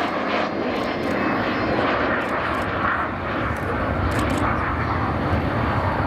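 Avro Vulcan XH558's four Rolls-Royce Olympus jet engines as the delta-wing bomber flies past, a steady loud rushing roar whose deep rumble grows stronger in the second half.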